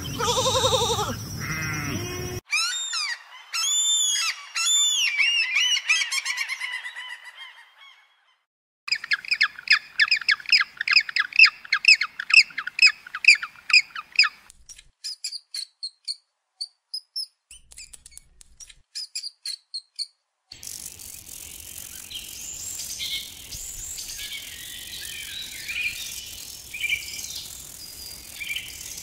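A string of animal calls: a sheep bleating for the first couple of seconds, then bird calls, first arching cries and then a fast run of repeated squawks and chirps. From about two-thirds of the way in, a quieter outdoor background with faint chirping takes over.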